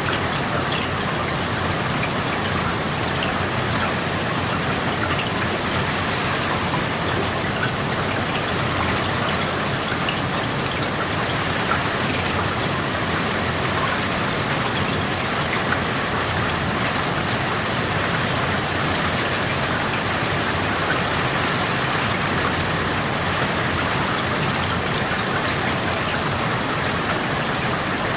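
Steady rain falling, heard through an open window, with many small drops tapping on surfaces.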